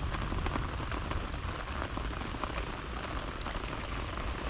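Heavy rain falling steadily, with many small ticks of drops striking close by.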